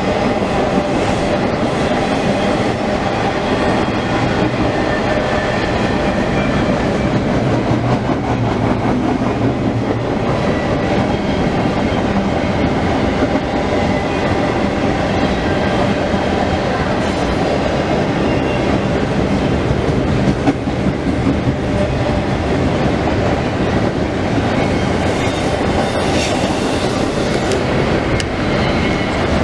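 CSX intermodal freight train rolling past at track side: a steady, loud rumble and clatter of cars over the rails, with faint thin high squeals drifting in and out.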